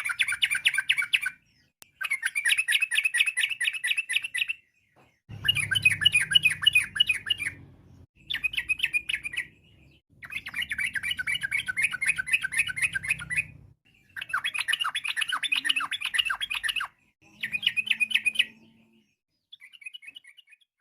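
Yellow-vented bulbul (trucukan) singing: a series of fast, rattling chattering phrases, each lasting one to three seconds with short pauses between, the last one faint.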